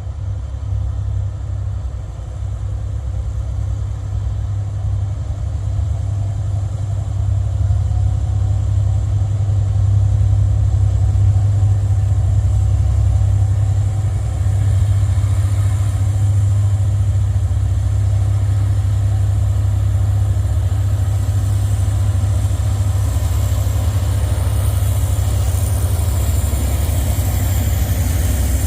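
Diesel train engine running with a deep, steady rumble that grows louder over the first ten seconds and then holds level. A faint high-pitched hiss joins near the end.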